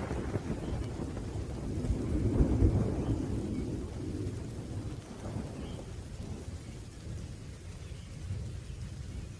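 Rolling thunder rumbling low over steady rain, swelling about two seconds in and then fading away.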